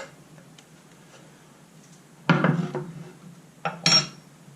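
Kitchen utensils knocking against a mixing bowl twice, about a second and a half apart, the second with a short metallic ring.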